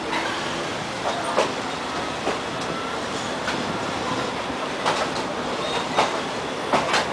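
Passenger train rolling slowly along the track. Its wheels give irregular sharp clacks over the rail joints, a second or so apart, above a steady rumble of the running gear.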